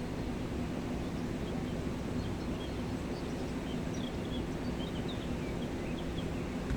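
Steady rush of the Gave de Pau mountain river, with small birds chirping faintly over it, the chirps mostly in the second half.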